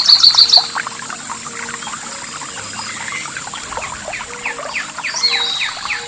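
Songbirds singing: a loud quick run of repeated high notes at the start, then a series of short downward-sweeping chirps, about three a second, from about four seconds in. Underneath is a steady high thin tone and a faint trickle of water.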